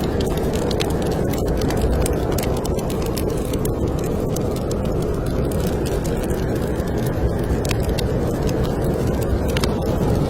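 Wood fire in a fireplace crackling, with frequent sharp irregular pops, over a steady low rumble of snowstorm wind.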